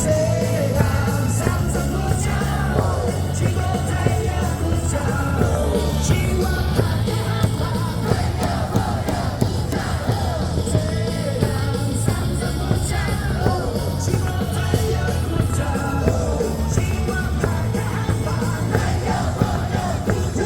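Baseball crowd singing and yelling a player's cheer song together with loud music over the stadium speakers, with a steady beat.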